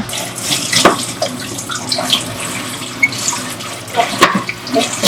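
Kitchen tap running steadily into a sink, with a few short knocks and clinks.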